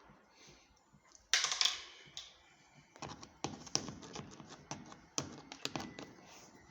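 A short loud scrape about a second in, then a run of irregular light clicks and taps, like small parts and a tool being handled while working on a washing machine.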